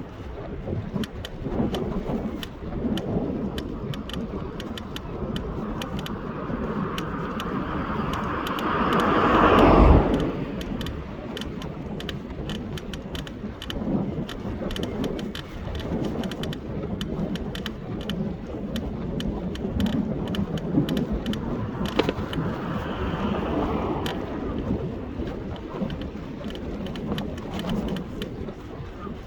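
A vehicle passing close by, growing louder to a peak about ten seconds in and then falling away quickly; a quieter one passes about twenty-two seconds in, over a steady outdoor rumble with scattered clicks.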